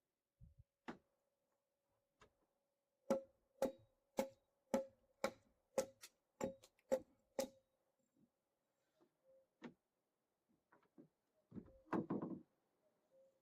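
A regular run of sharp knocks, about two a second for roughly four seconds, each leaving a brief ringing tone. Lighter scattered clicks follow, then a louder, clattering knock near the end.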